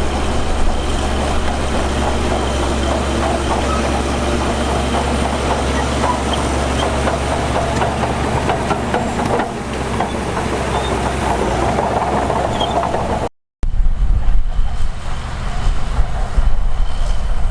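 Heavy diesel earthmoving machinery running steadily with a low rumble. About three-quarters of the way through the sound cuts out for a moment, and a gustier, heavier low rumble follows.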